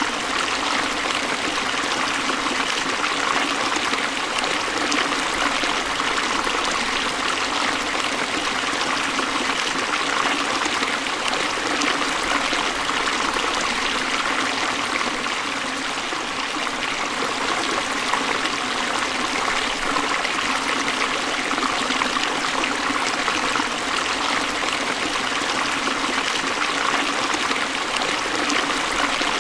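Forest stream of water flowing and splashing over rocks, a steady, unbroken rush.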